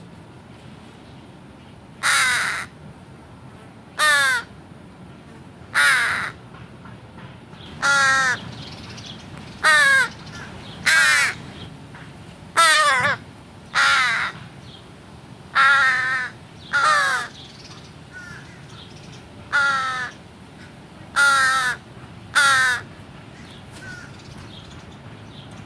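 American crow cawing, about thirteen harsh caws spaced a second or two apart, which stop a few seconds before the end.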